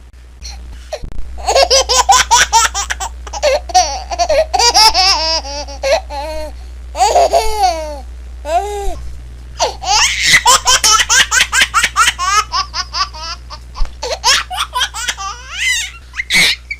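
A baby laughing in several long bouts of rapid, high-pitched, pulsing laughter, with short pauses between bouts.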